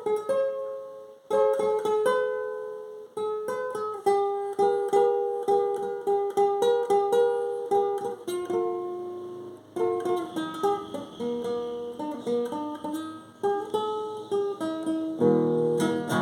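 Viola caipira, the Brazilian ten-string folk guitar, played solo: a picked melody in runs of separate plucked notes, with short breaks about a second and three seconds in, and fuller, lower notes coming in near the end.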